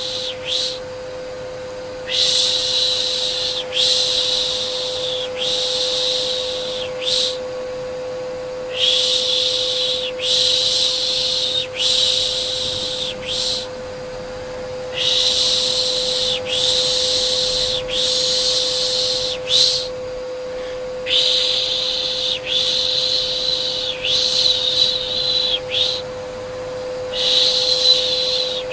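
Rhythmic 'shh shh' shushing for soothing a baby, a hiss about every second and a half in runs of three or four with short pauses, over a steady hum from a vacuum cleaner.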